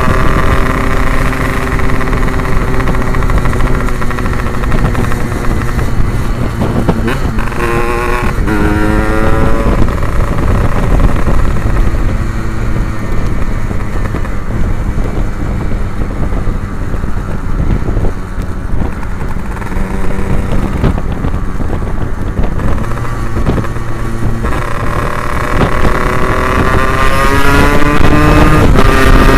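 Yamaha RX-King two-stroke single-cylinder engine running through an aftermarket Abbox C20 exhaust while riding. The engine note falls away at first, climbs sharply about eight seconds in, holds steadier through the middle and climbs again near the end.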